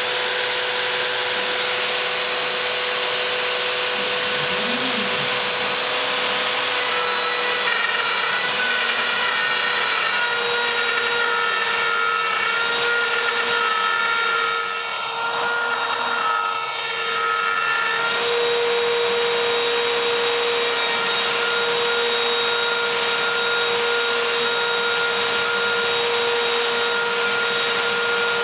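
Homebuilt CNC router running a test cut: the spindle holds a steady whine while the bit cuts, with higher tones shifting as the machine moves. The sound eases off briefly about halfway through, then carries on.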